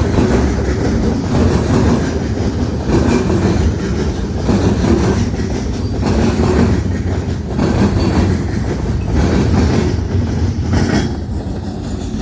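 Railway cars rolling past close by, their wheels clacking over the rail joints in a repeating rhythm over a steady low rumble.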